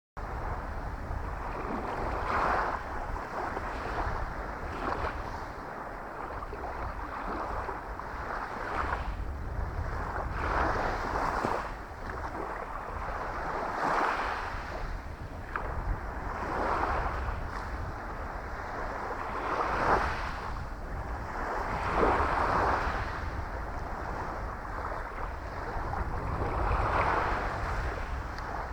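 Small sea waves washing onto the shore, a swell of surf every two to three seconds, with wind rumbling on the microphone.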